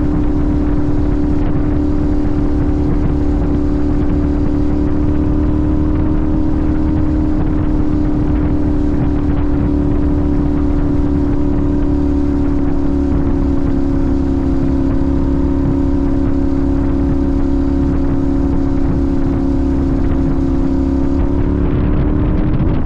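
Sportbike engine running at a steady cruise over a low rush of noise, its pitch easing slightly downward. Near the end the pitch dips and wavers as the throttle changes.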